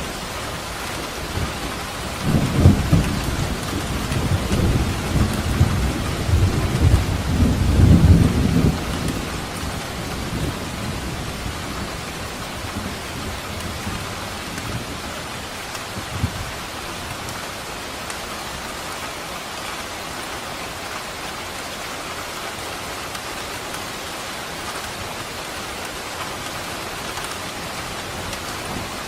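Steady rain falling, with a roll of thunder that starts about two seconds in, rumbles for several seconds and fades out, followed later by one short distant rumble.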